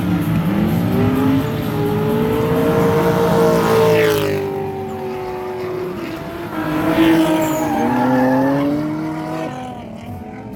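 Drift cars' engines revving up and down during a run, more than one at once, with tyre squeal; the engine pitch rises and falls repeatedly, loudest about four seconds in and again around seven seconds.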